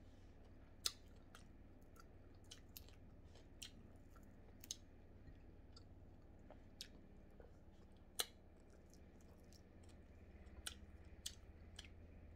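Close-up chewing of crispy fried bigeye scad: scattered sharp crunches and mouth clicks, about a dozen in all, the loudest about a second in and about eight seconds in, over a faint low hum.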